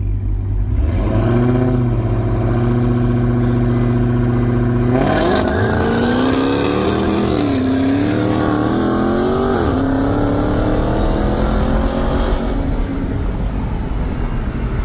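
V8 muscle cars launching in a race: engines held at steady raised revs for a few seconds, then a sudden launch about five seconds in. The engine note climbs and wavers as they accelerate away, and eases off near the end.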